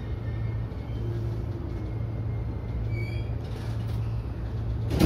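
An E233-series electric train running, heard from its driver's cab: a steady low hum with a brief high tone about three seconds in.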